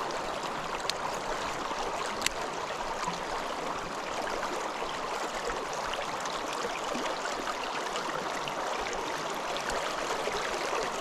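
A small mountain stream flowing, a steady rush of water. Two brief sharp clicks sound about one and two seconds in.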